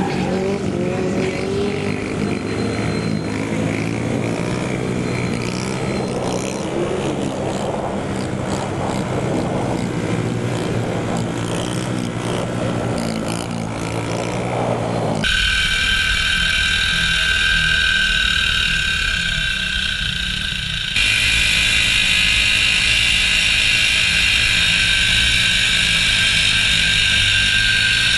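Mini bike engines, small single-cylinder four-strokes, revving with rising and falling pitch. About halfway it cuts abruptly to a steady, high-pitched engine drone with hiss, which jumps louder again a few seconds later.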